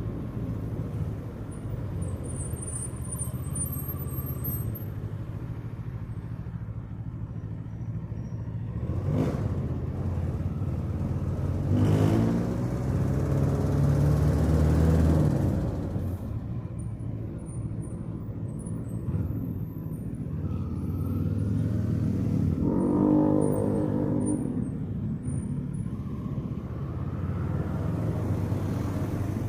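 Onboard sound of a 2024 Kawasaki Eliminator SE's parallel-twin engine running while riding in city traffic, with street traffic around it. The engine note swells and rises in pitch about a third of the way in and again later, then settles back.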